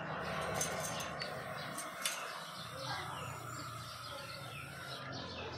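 Small birds chirping with many short, quick calls that each drop in pitch, over a steady low hum.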